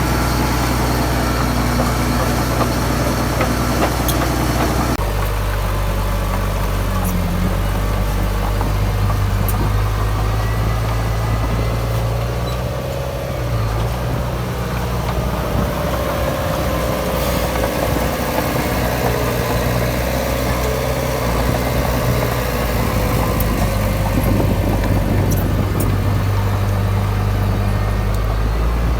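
Heavy diesel earthmoving machinery running steadily, with a low engine tone; the sound changes abruptly about five seconds in.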